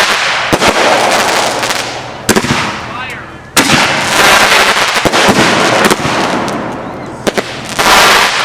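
Fireworks going off: a rapid string of sharp bangs over dense crackling, with a big burst just after three and a half seconds in.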